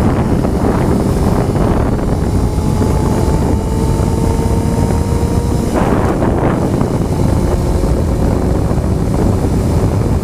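Loud wind buffeting on the microphone of a Honda CBR motorcycle being ridden, with the bike's engine note faintly underneath, slowly rising in pitch and fading out about six seconds in.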